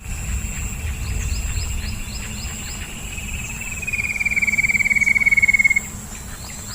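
A calling animal's rapid trill. It grows louder and drops slightly in pitch about halfway through, then stops about a second before the end, over a steady high whine and a low rumble.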